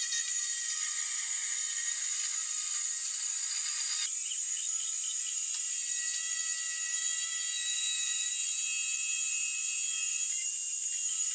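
Small DIY CNC router's spindle motor running with a steady high-pitched whine while its cutting bit mills through a plexiglass (acrylic) sheet. The tone shifts abruptly about four seconds in.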